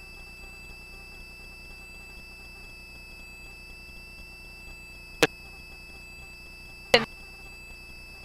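Helicopter cabin intercom feed: a faint steady high-pitched electronic tone over low hum and hiss, with two sharp clicks about five and seven seconds in.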